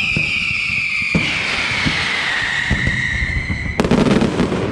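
Aerial fireworks display: a loud whistling firework sounds one long tone that falls slowly in pitch, over scattered bangs. Near the end the whistle cuts off as a louder, dense burst of bangs and crackling takes over.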